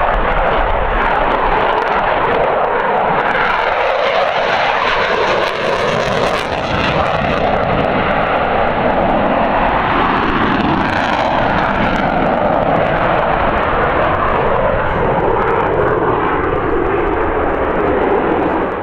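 Jet noise from an RAF Eurofighter Typhoon FGR.4's twin Eurojet EJ200 turbofans as it flies a display: a loud, steady roar with no clear pitch.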